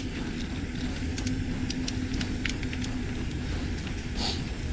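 A steady low rumble of background noise. A steady hum runs under it and fades out about three seconds in, with a few faint ticks along the way.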